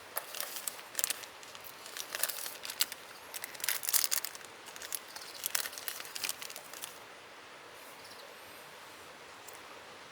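Irregular crinkling and crackling, as of something being handled, in quick clusters for about seven seconds, then stops, leaving a faint steady outdoor background.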